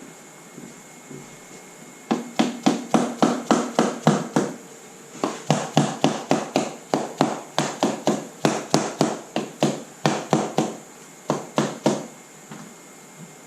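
Rapid hammer blows, about four a second in three runs, tapping a cylinder head down onto its locating dowel pins on the engine block. The head is sticking on the dowels, which the mechanic suspects are a little tight after machine-shop work.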